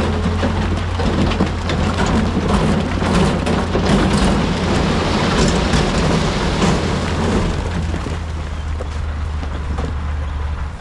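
Heavy diesel machinery engine running steadily under a dense rattling rush of rock tumbling and sliding, as when rock is dumped or pushed. The rattling thins out after about eight seconds while the engine keeps running.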